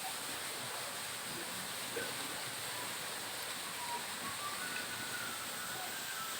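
Steady outdoor background noise with a few faint, short high tones.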